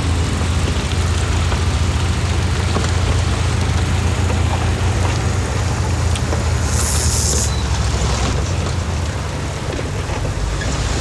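Heavy diesel earthmoving machinery running steadily, a deep pulsing engine rumble. About seven seconds in there is a short, sharp hiss, like air being released.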